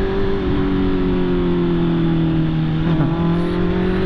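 Honda CB650R inline-four engine running under way at moderate revs, its note sagging slightly, dipping briefly about three seconds in, then climbing again, with wind and road rush underneath.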